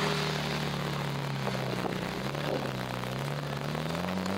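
A vehicle engine drones steadily. Its pitch sinks about halfway through and climbs back near the end.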